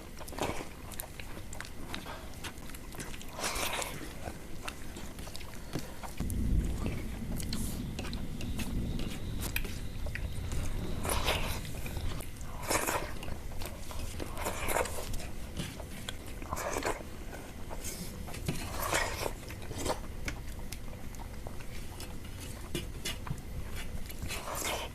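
Close-miked mouth sounds of someone eating rice and banana in milk: continuous chewing with small wet clicks, and a louder mouthful noise every couple of seconds.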